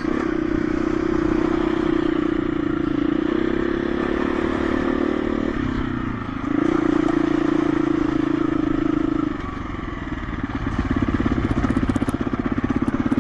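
Single-cylinder four-stroke engine of a KTM 350 EXC-F dirt bike running at steady revs, easing off briefly about six seconds in. From about ten seconds in it drops to slow, lumpy low-rev chugging.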